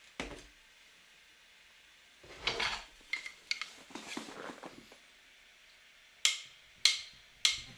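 Faint, scattered clicks and knocks, like small things being handled, ending with three sharper clicks evenly spaced about half a second apart.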